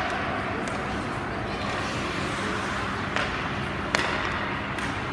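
Ice hockey game ambience in an indoor rink: a steady murmur of noise broken by a few sharp clacks of stick and puck, the loudest about four seconds in.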